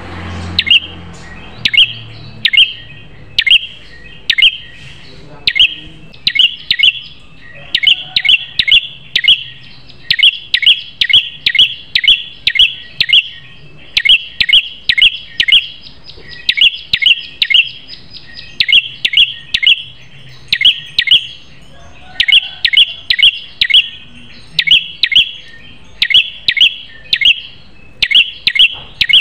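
Prenjak kepala merah songbird calling: sharp, high chirps repeated several times a second in long runs broken by short pauses.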